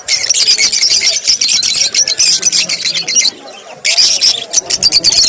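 A flock of small parrots chattering with fast, dense high chirps. The chatter drops out briefly a little over three seconds in, then resumes.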